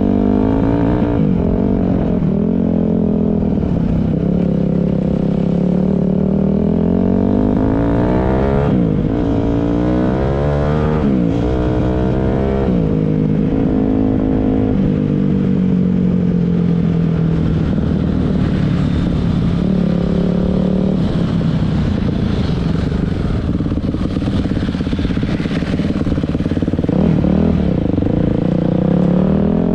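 Dirt bike engine running under way, its pitch climbing and dropping repeatedly as the throttle is opened and closed, with several quick rises and falls between about 8 and 13 seconds in.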